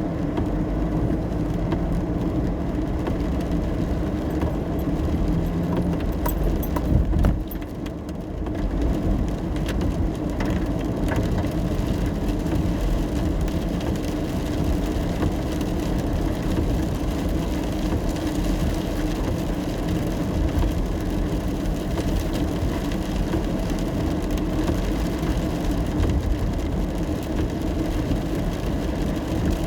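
Car driving in the rain: steady road and tyre noise mixed with rain on the car. About seven seconds in there is a short swell and then a brief lull.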